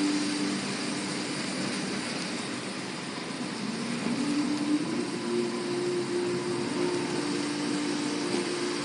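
Car engine droning with steady road noise, heard from inside the car while driving; the engine's pitch rises about four seconds in as the car speeds up.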